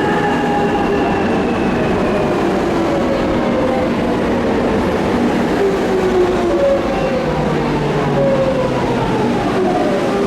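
Electric train running, its motors giving a whine in several tones that falls steadily in pitch, over steady rolling noise.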